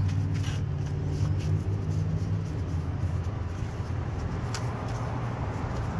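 A car engine running at idle: a steady low hum, a little stronger in the first couple of seconds, with a few faint clicks over it.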